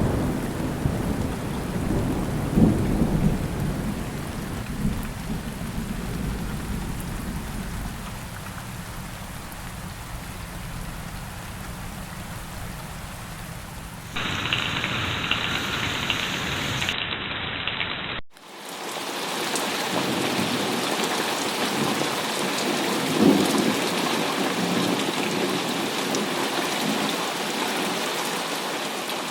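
Monsoon rain falling steadily, with a deep low rumble that fades over the first several seconds. The sound changes abruptly twice as different recordings are cut together; the last is a brighter, hissier downpour with no low end.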